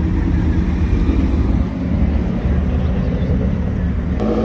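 Car engine and exhaust running loudly with a deep, steady rumble. About four seconds in there is a sharp click, after which a more pitched engine note comes in.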